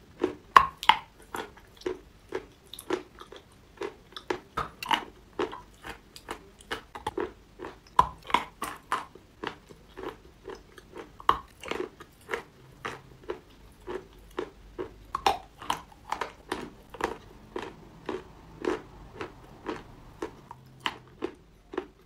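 Close-up chewing and biting of dry Sevryukovo chalk with napoleon paste: a steady run of sharp, crisp crunches, roughly two a second.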